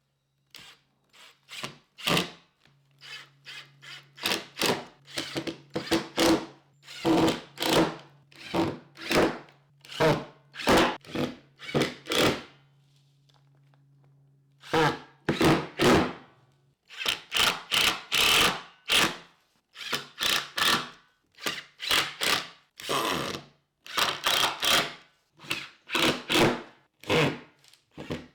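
Power drill driving screws into wood in many short trigger bursts, with a brief pause about halfway through.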